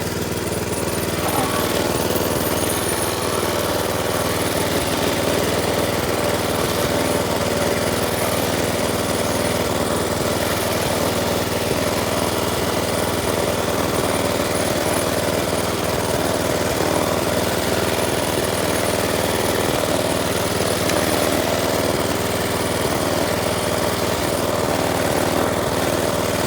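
Minibike's small engine running steadily as it is ridden.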